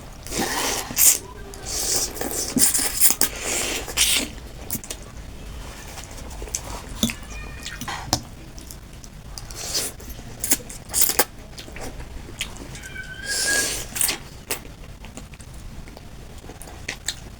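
Close-up eating sounds of chicken thukpa noodle soup: repeated slurps of noodles and broth, each lasting up to about a second, with chewing and small clicks in between.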